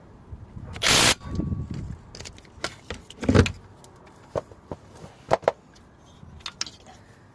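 Workshop handling noises: knocks and clicks of tools and parts, with a short loud rush of noise about a second in and a heavier thud about halfway through.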